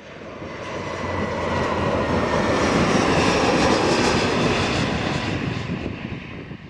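Airliner engines of a plane passing close by, the roar swelling over the first couple of seconds with a thin high whine on top, then easing off and cutting out at the end.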